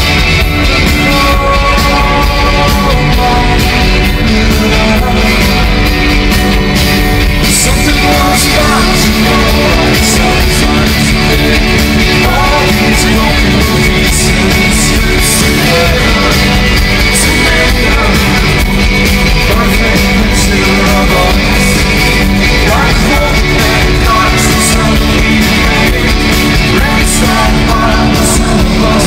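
Rock band playing live in an arena, with guitars, drums and cymbals, recorded loud and dense from the audience.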